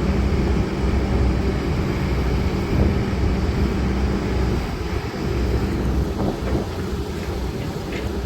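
Heavy diesel engine of a Kobelco SK200-10 excavator running steadily under load with a constant low hum.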